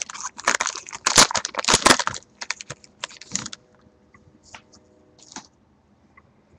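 Packaging crinkling and tearing as a retail trading-card box and its packs are opened. The sound is a loud run of crackling for about three and a half seconds, then only a few faint clicks.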